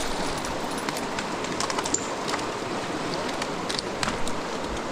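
Creek water rushing steadily, with scattered small splashes and clicks on top.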